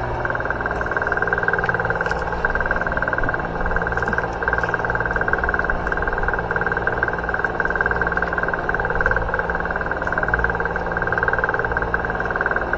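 Boat engine running steadily with a constant drone and a fast, even pulse.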